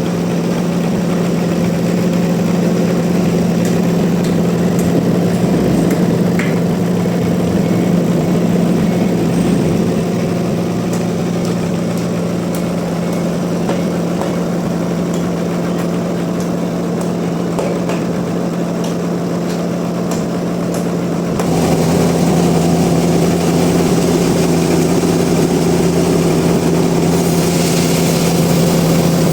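Sawmill machinery running steadily with a constant deep hum. About 21 seconds in it grows louder and harsher and stays at that level.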